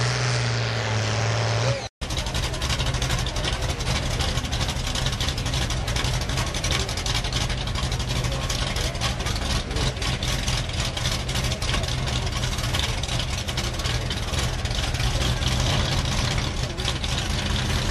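Competition pulling vehicle's engine running hard and loud, with a rough, crackling exhaust; the sound cuts out for an instant about two seconds in, then the engine runs on.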